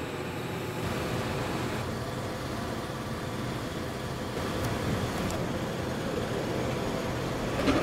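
Kobe Electric Railway 1000 series train moving slowly through the depot toward the train wash machine: a steady rumble and motor hum, with a sharp knock near the end.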